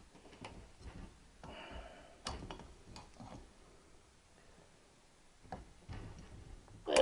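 Irregular light metal clicks and knocks from a valve spring compressor and valve parts being worked on a Triumph 650 cylinder head while the collets are released, with a louder knock about two seconds in and a sharper one at the very end.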